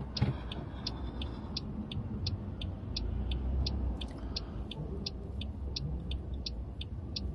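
Car turn-signal indicator ticking steadily, about three clicks a second alternating tick and tock, over the low hum of the car's engine idling, heard inside the cabin.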